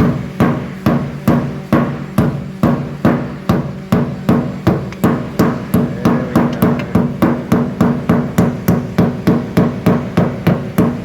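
A mallet striking the sheet-metal inner lip of a car's wheel-arch guard in a steady rhythm of about three blows a second. The blows are folding the lip up flat so the tyre won't scrub on it.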